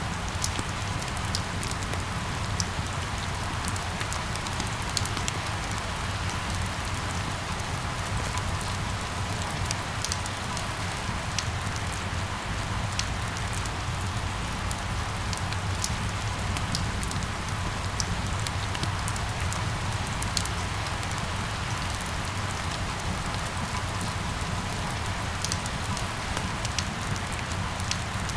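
Steady rain falling, with many small, sharp raindrop ticks scattered over an even hiss, and a steady low rumble underneath.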